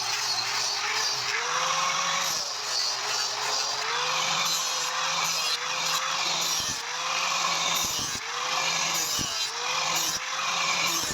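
An electric power tool working metal. Its motor tone dips and recovers about once a second as it is pressed into the work, over a steady grinding hiss and a low hum.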